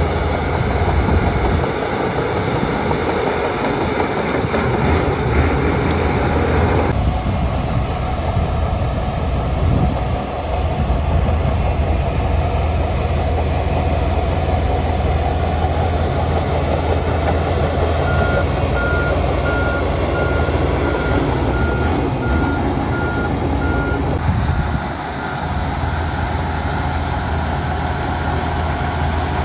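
Heavy diesel earthmoving machinery, a bulldozer and dump trucks, running steadily with a deep engine hum. In the second half a vehicle's reversing alarm beeps evenly for several seconds, and the overall sound shifts abruptly twice.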